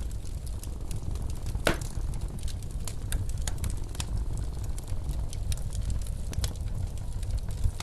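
Wood fire crackling in a fireplace, with scattered small pops and one louder pop about two seconds in, over the steady low rumble of blizzard wind.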